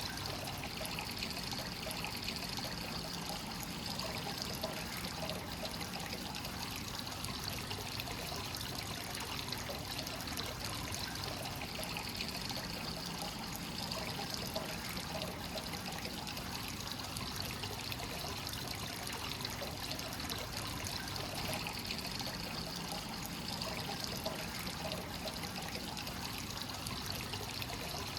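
Hot-spring source water pouring and trickling steadily into a bath, free-flowing with no recirculation, swelling slightly every ten seconds or so.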